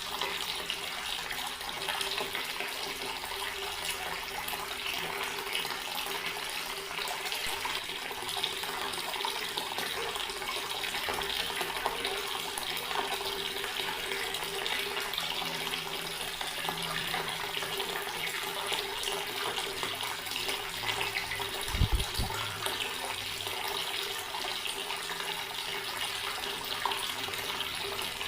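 Water running steadily from a tap in an even stream, with a faint steady hum underneath. About three-quarters of the way through there is one brief low thump.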